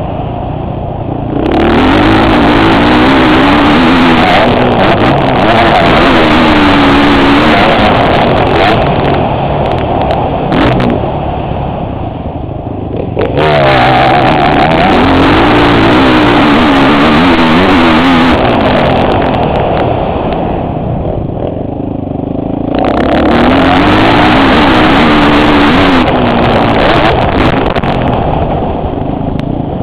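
Motocross bike engine heard from a helmet-mounted camera while riding, revving up and falling back with the throttle, with heavy wind noise on the microphone on the fast stretches. It eases off three times: about a second in, around twelve seconds in and around twenty-two seconds in.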